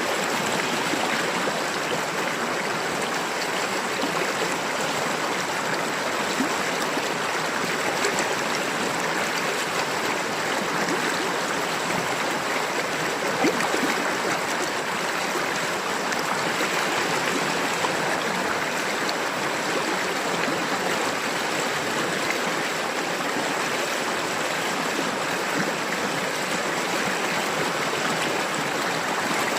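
River water babbling and splashing over rocks, a steady, even rush.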